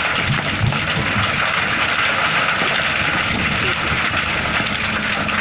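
Excavator running, a steady loud mechanical noise.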